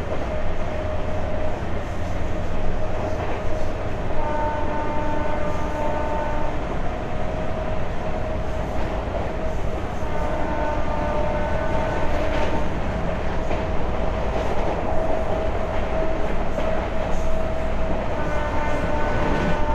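Passenger train running along the track with a steady low rumble and a steady hum, heard from an open coach doorway. The train's horn sounds three times, each blast about two seconds long: about four seconds in, about ten seconds in, and near the end as the train nears a level crossing.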